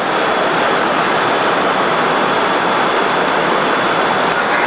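Steady rushing noise of a Boeing 737-200 in flight, shortly after takeoff: slipstream and Pratt & Whitney JT8D engine noise heard on board. A faint thin high tone runs under it.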